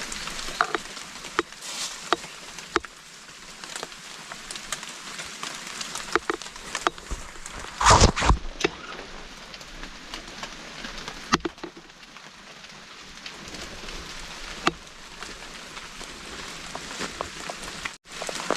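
Steady heavy rain, with scattered drops ticking close by and one short, louder thump about eight seconds in.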